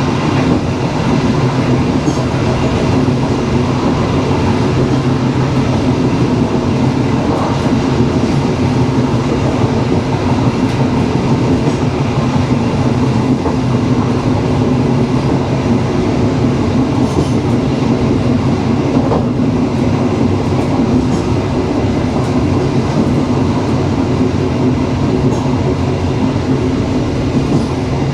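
Passenger train running steadily along the track: a loud, even rumble of wheels on rails.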